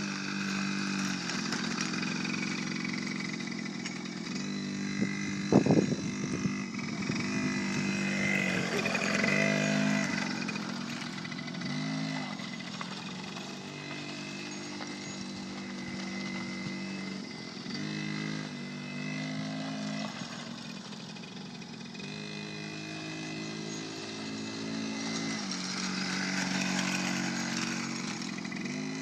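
Small dirt bike engine running, its note rising and falling several times as the throttle opens and closes. A sharp knock sounds about five and a half seconds in.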